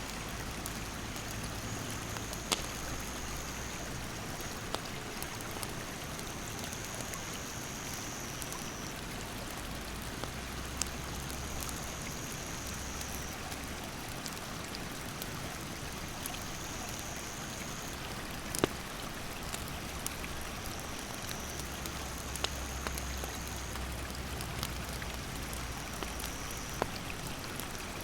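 Steady rushing of a stream, with scattered sharp pops and crackles of a wood campfire. A high, steady insect trill starts and stops several times.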